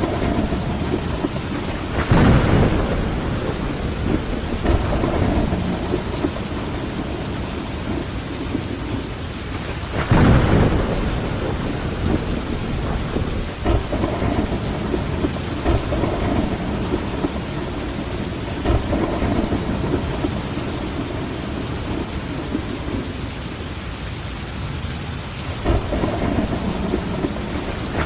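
Steady rain on a window pane, with thunder rumbling several times: the loudest rolls come about two seconds in, around ten seconds in, and near the end.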